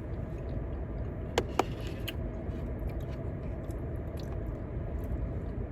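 Someone eating fried chicken: quiet chewing and small mouth and food clicks, with two sharp clicks close together about a second and a half in, over a steady low rumble.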